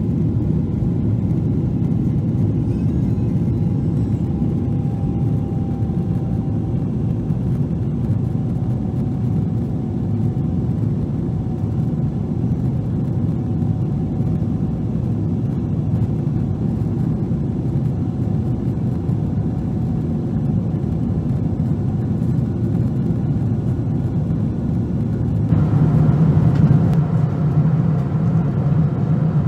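Steady in-flight cabin noise of a Boeing 777-300 airliner: a low rumble of engines and rushing air with a faint steady whine. About 25 seconds in, the sound shifts abruptly, turning hissier and a little louder.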